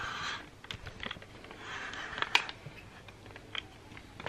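Scattered clicks and small knocks of a hard object being handled and fiddled with, with one sharper click about two and a half seconds in.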